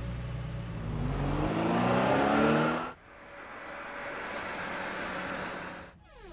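Ford pickup truck's engine accelerating, its pitch rising steadily for about three seconds before cutting off suddenly, followed by a steady, quieter road noise as the truck drives along.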